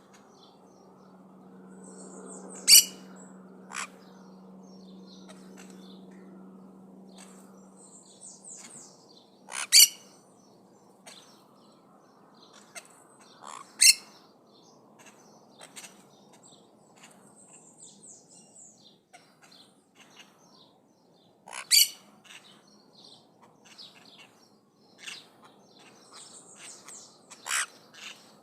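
Maritaca parrots calling: about five short, loud, sharp calls spaced several seconds apart, with softer high chirping between them. A faint low hum sits underneath for the first few seconds.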